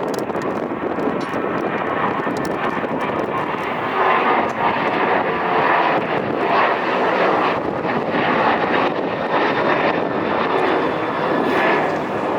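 Jet airliner taking off, its engines at takeoff power making a loud, steady rushing noise that grows louder about four seconds in.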